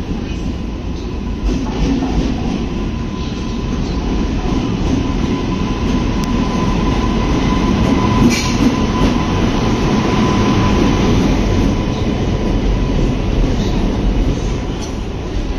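Indian Railways express train rolling slowly into a station platform: the locomotive passes with a steady whine over the low rumble of wheels on rail, then the passenger coaches roll by. A brief sharp squeal rings out about eight seconds in.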